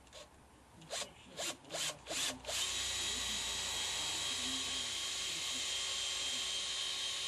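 Electric drill run in four short blips, then held on steadily for about five seconds, drilling a hole in the VW engine case for the crossbar mount.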